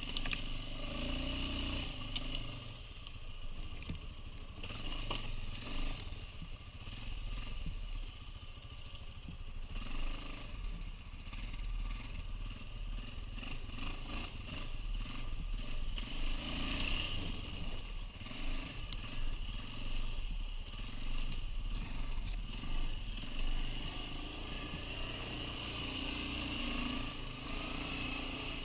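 Quad bike (ATV) engine running and revving up and down under load, with some clattering.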